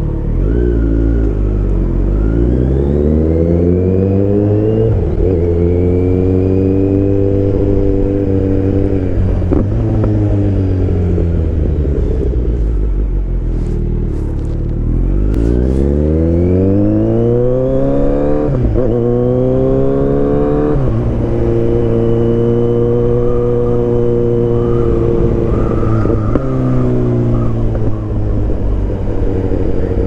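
2023 Kawasaki Z900's inline-four engine pulling away and accelerating up through the gears, the revs climbing and then dropping at each upshift. About halfway through it eases off, then accelerates again through two more shifts and settles into a steady cruise.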